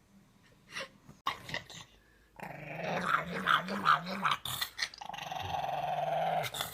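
A dog growling: after a few clicks, a wavering growl begins about two seconds in and turns into a long, steady growl near the end.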